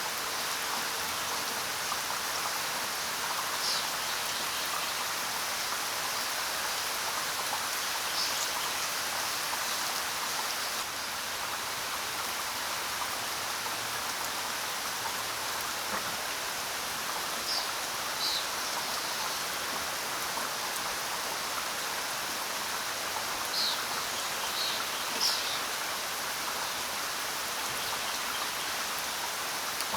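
Steady rain falling with an even hiss. A few short, high bird chirps come now and then, mostly in the second half.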